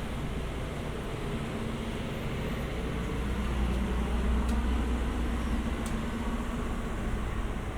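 City street traffic: cars and engines passing with a steady rumble and tyre hiss on wet pavement, a little louder near the middle.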